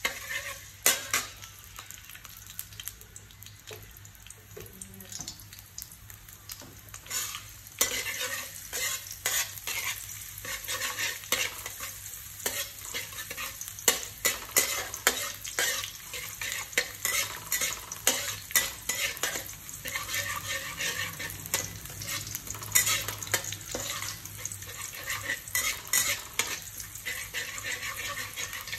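Minced garlic sizzling in hot oil in a metal wok while a metal spatula stirs it, scraping and clicking against the pan again and again. The sizzle grows louder about eight seconds in.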